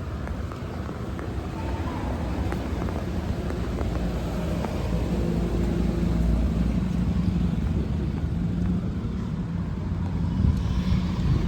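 Motor vehicle engine running close by, a low steady hum that grows louder through the first half and then eases slightly, over general street noise.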